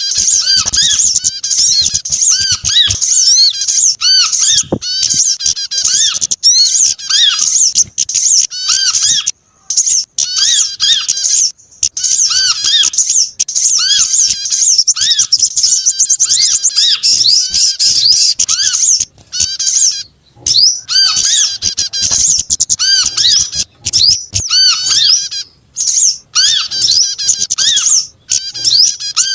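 A bird-lure recording of mixed small-bird calls, layered sogon, kemade, korlap and prenjak songs. It runs as a dense, nonstop chatter of quick high chirps and short rising-and-falling notes, with a few brief cut-out gaps. Such a track is played to call small birds down.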